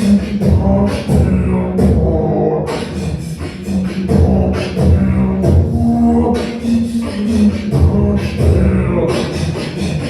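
Beatboxing: vocal kick-drum thumps and hissing hi-hat-like clicks in a steady groove, with a hummed tone held underneath.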